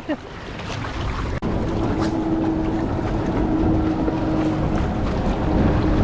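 A group of Sea-Doo personal watercraft running on the river: a steady engine drone over a rumble, growing louder through the first second or so and then holding.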